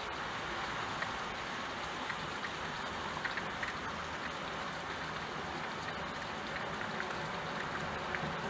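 Steady rain falling on a surface, with scattered individual drops ticking.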